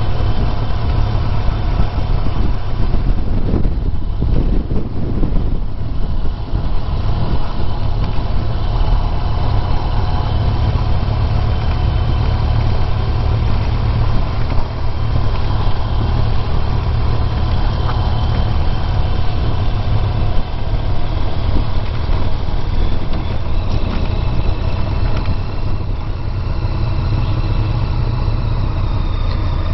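Honda VFR1200X Crosstourer's V4 engine running steadily under way, with road and wind noise from the ride.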